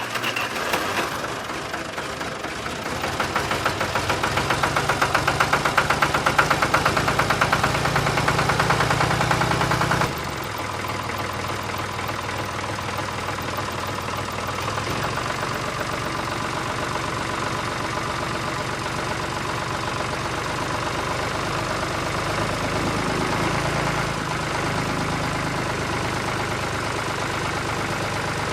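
Small motor of a homemade model tractor running steadily with a fast rattle from its drive. It runs louder for the first several seconds, then drops in level abruptly about ten seconds in and carries on evenly.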